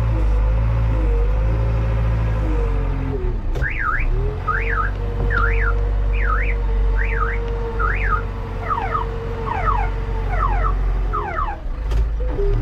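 Backhoe loader's diesel engine running, with a held droning note under it. About three and a half seconds in, an electronic alarm starts warbling, sweeping up and down about once a second, then breaks into quicker falling chirps, and it stops near the end.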